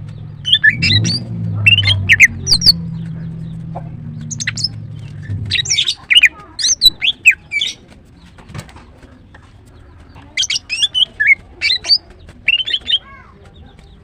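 Female greater green leafbird (Chloropsis sonnerati) calling in bursts of quick, sharp chirping notes, several clusters a couple of seconds apart. A low steady hum runs underneath and stops about six seconds in.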